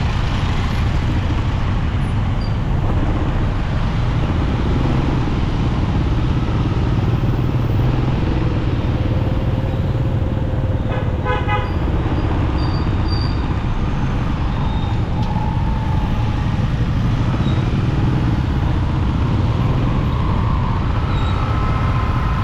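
Steady rumble of a motorcycle riding through city traffic. A short vehicle horn toots once about eleven seconds in.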